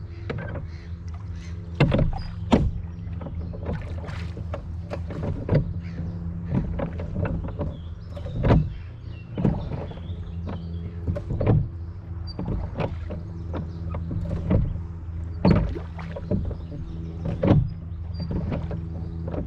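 Small rowing boat on a river: oars knocking and splashing at irregular intervals, the loudest strokes about every one to two seconds, over a steady low hum.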